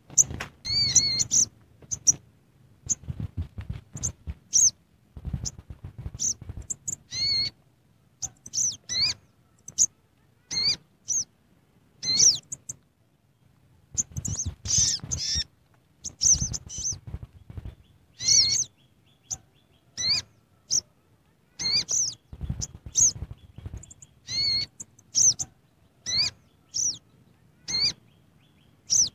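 A bird giving many short, sharp chirps in quick irregular series, with soft low knocks or rustling between them.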